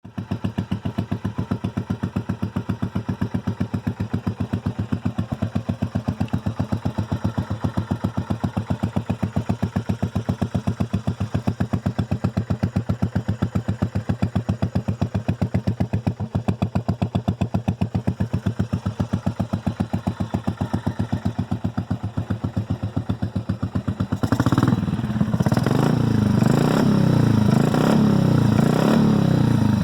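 2001 Buell Blast's single-cylinder engine, breathing through a K&N intake and a Pro Series exhaust on a custom header without restrictor plates, idling cold with an even pulse. About 24 seconds in it gets louder as the throttle is opened, the pitch rising and falling with the revs.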